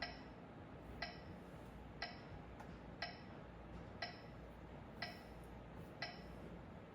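Metronome ticking steadily, about one tick a second.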